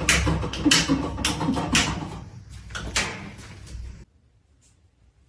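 Rapid, irregular knocks and rattles over a low hum, stopping abruptly about four seconds in.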